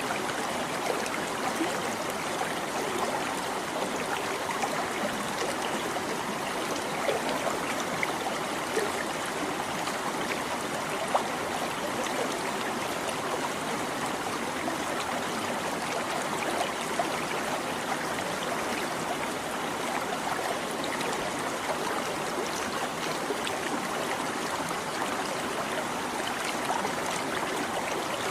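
Small stream babbling and trickling over stones, a steady gurgle of running water with small splashes throughout.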